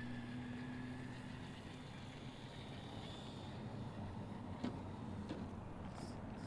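Electric drivetrain of a 1/10-scale Element RC Enduro Knightrunner crawler whining steadily at low speed, fading after about two seconds. There is a single sharp knock about four and a half seconds in.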